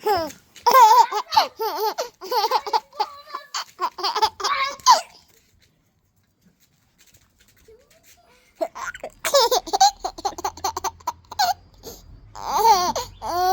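A young child laughing and babbling in short bursts, with a few seconds of near silence in the middle.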